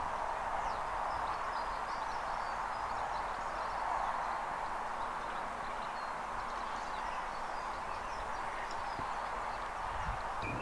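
Steady outdoor background hiss with faint, scattered bird chirps high above it.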